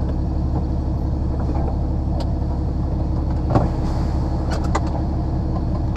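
HGV lorry's diesel engine running steadily, heard from inside the cab, with a few faint clicks over the hum.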